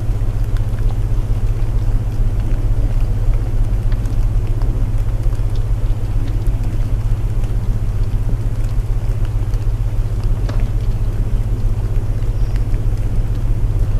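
Layered sleep soundscape: a steady low hum of binaural tones under a constant hiss of rain, with scattered faint crackles and clicks from a wood fire.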